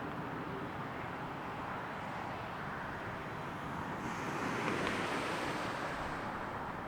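Distant jet airliner engine noise, an even rush that swells about four seconds in, peaks a second later and then eases off as the aircraft passes.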